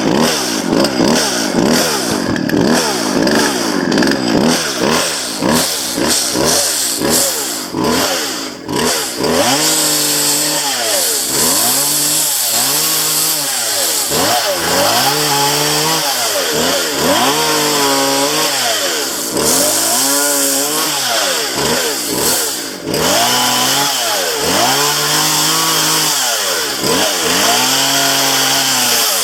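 Chainsaw running at high speed while cutting downed branches. After about nine seconds its engine settles into a repeated pattern, revving up and dropping back roughly every two seconds.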